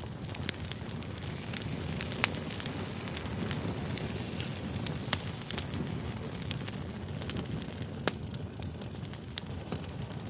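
Firewood logs burning, crackling with frequent sharp pops and snaps over a low steady rumble of the flames; the loudest snaps come about two and five seconds in.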